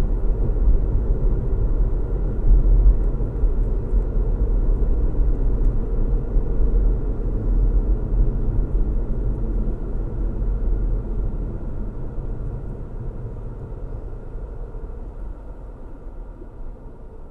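Car driving on a road: a steady low rumble of engine and road noise, fading out gradually over the second half.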